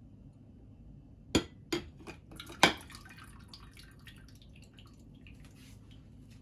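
Four sharp clinks and knocks between about one and a half and two and a half seconds in, then scattered light ticks and drips, over a low steady hum.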